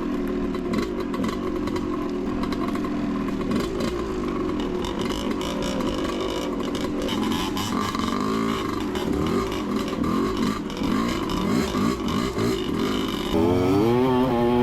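Dirt bike engine running, its pitch rising and falling with the throttle. Near the end it gets louder, with quick revs up and down.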